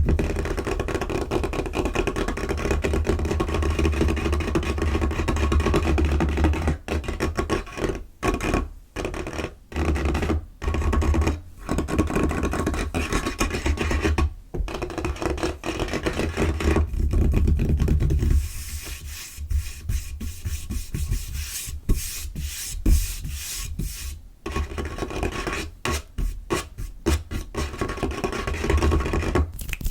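Fingers and nails tapping and scratching fast on a tabletop, with quick bursts and short breaks. About 18 seconds in, it turns lighter and hissier, mostly scratching, before fuller tapping comes back near the end.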